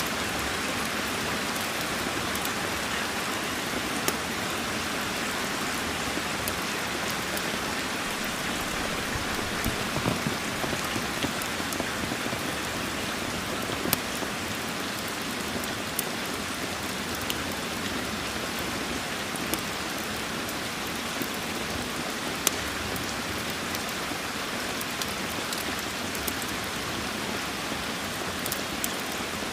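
Steady heavy rain, an even hiss, with scattered sharp ticks and clicks, a few louder ones standing out.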